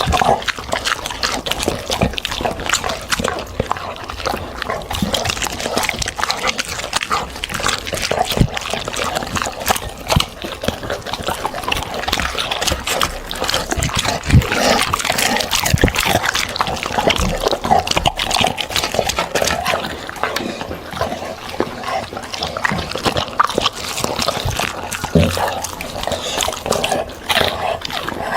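A dog eating vegetables and fruit, chewing steadily with many small crunches and clicks.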